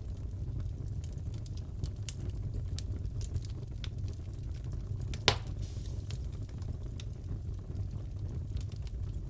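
Crackling fireplace: a steady low rumble of burning wood with scattered small crackles and one loud pop about five seconds in.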